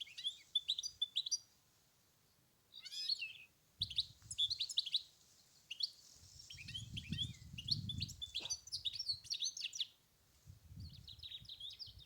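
European goldfinch singing: quick, twittering phrases broken by short pauses. A low rumble runs underneath for a few seconds in the middle.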